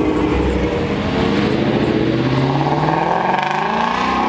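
A car engine accelerating: after a brief steady stretch its pitch climbs steadily through the second half as it pulls away under throttle.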